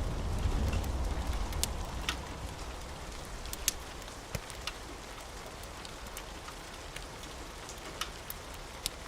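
Steady rain with scattered sharp pops and crackles of a wood fire, and a low rumble of thunder dying away over the first few seconds.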